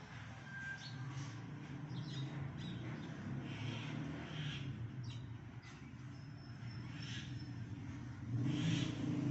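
Sparrows chirping in short, scattered calls over a steady low rumble that grows louder near the end.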